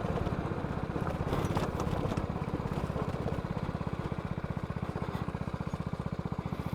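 BMW G310GS single-cylinder motorcycle engine idling, a steady, even low chugging of many beats a second.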